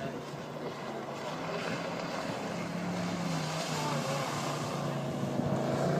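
Motorboat engine running, with a steady hum that grows louder toward the end, over a rushing noise.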